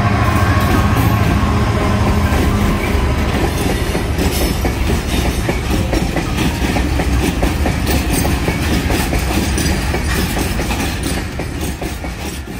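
Class 66 diesel-electric freight locomotive, with its two-stroke V12 engine, passing close by. Its engine hum is strongest in the first couple of seconds. A long rake of bogie box wagons then rolls past with a steady clickety-clack of wheels over the rail joints, fading near the end.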